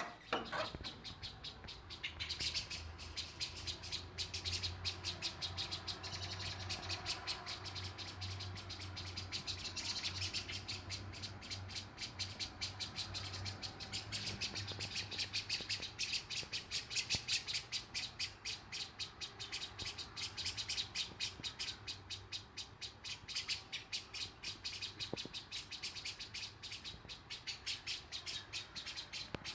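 Small birds chirping rapidly and continuously, many short high chirps in quick succession. A low steady hum runs beneath them for about the first half.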